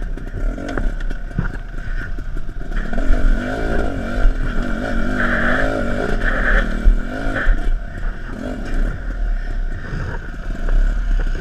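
Off-road dirt bike engine running at low speed, its pitch rising and falling as the throttle is worked, with clattering and scraping.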